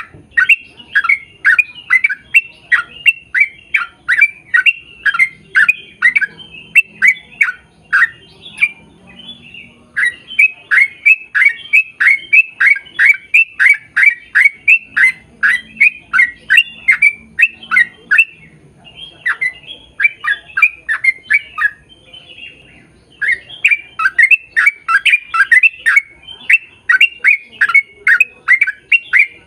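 A bird calling in rapid runs of short, harsh squawks, about three a second, each dropping in pitch, with brief pauses between the runs.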